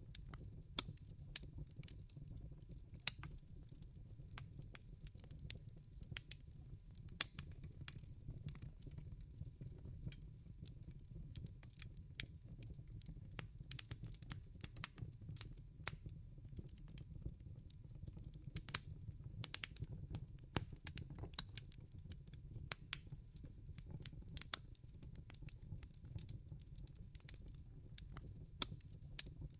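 Wood fire burning in a fireplace, crackling: irregular sharp pops and snaps, several a second at times, over a steady low rumble.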